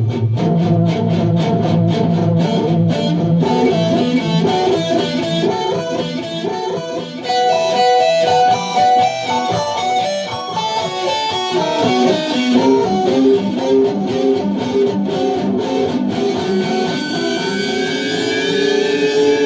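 Electric guitar played through ping-pong delay and a pitch shifter: rapid, evenly picked notes for the first few seconds, then a changing run of notes, ending on a long held note with a high ringing overtone that slides slightly in pitch.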